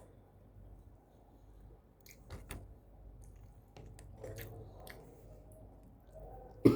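Close-miked eating: chewing with soft wet mouth clicks, and one short loud knock near the end.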